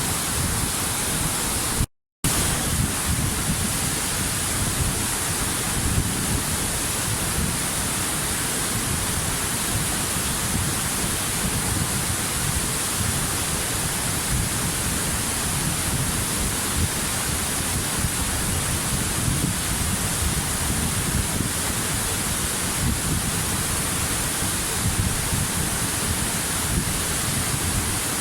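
Waterfall: a steady, even rush of falling water. The sound cuts out completely for a split second about two seconds in.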